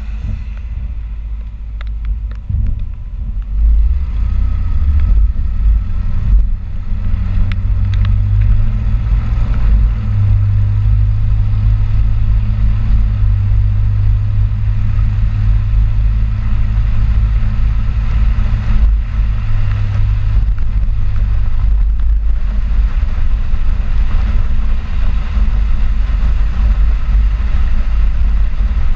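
Ford 4x4 pickup truck driving on the road: a heavy, steady low rumble of engine and road noise that grows louder about four seconds in.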